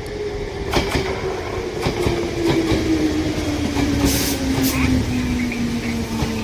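Electric train running through the station, its motor tone sliding slowly downward, with the wheels clacking and knocking over the rail joints.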